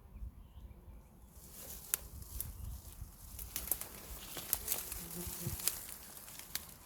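Rustling and crackling of plants with many sharp clicks, starting about a second in, over a low rumble.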